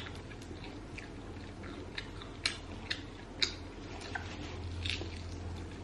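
Close-miked mouth sounds of a person biting and chewing seaweed wrapped around cheese-flavoured spicy noodles. Several short crisp clicks come about half a second apart from around two seconds in, over a low steady hum.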